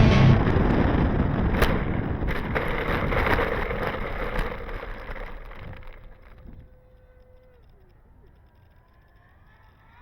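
Wind rush and electric motor noise from an AeroScout RC plane flying in strong wind. The noise dies away over about six seconds to near quiet.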